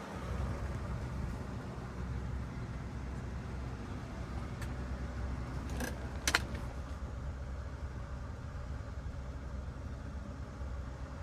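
1977 Cadillac Eldorado Biarritz's V8 engine running steadily with a low rumble. A few short clicks or rattles come a little past the middle, the sharpest about six seconds in.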